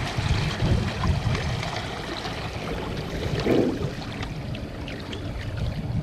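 Water lapping and sloshing around a small fishing boat, over a low rumble of wind and handling noise on the microphone, with small clicks and a short muffled sound about three and a half seconds in.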